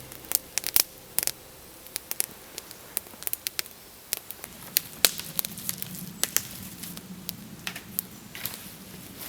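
Irregular sharp crackles and clicks, with a faint low hum joining about halfway through.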